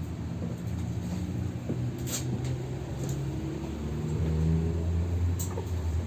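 A 71-608KM tram running between stops, heard from inside: a steady low hum from the car and its motors, growing louder about four seconds in, with two sharp clicks, about two seconds and five seconds in.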